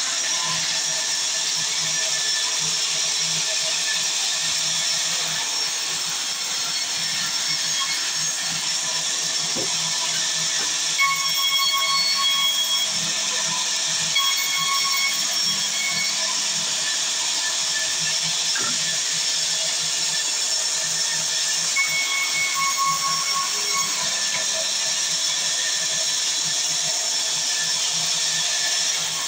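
Sawmill saw running and cutting wood: a steady high hiss over a low hum, with a higher whining tone that comes and goes a few times.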